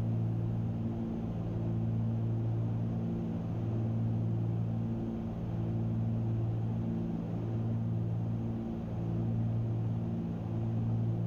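Cabin drone of a Cessna 310Q's two piston engines and propellers in flight: a steady low hum with slow, regular swells in loudness.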